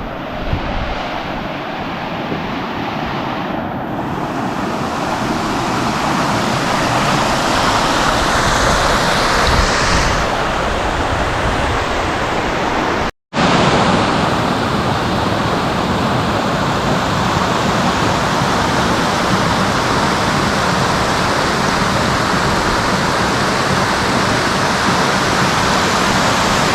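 Steady rushing outdoor noise with no distinct events, briefly cut to silence about thirteen seconds in.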